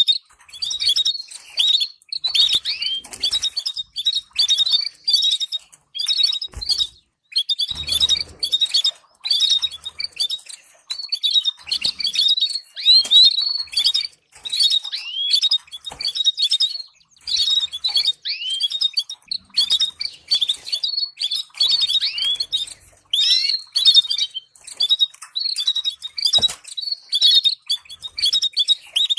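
Domestic canary singing in fast, continuous trills and chirps, phrase after phrase with short pauses. This is a stimulating training song of the kind played to teach young canaries. A few soft low thumps come through now and then.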